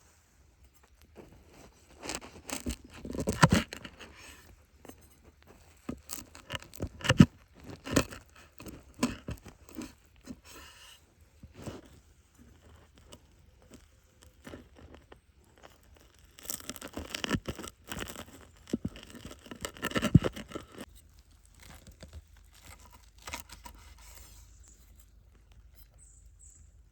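Irregular handling noises: scrapes, taps and tearing sounds in two busy spells of several seconds each, with quieter gaps between.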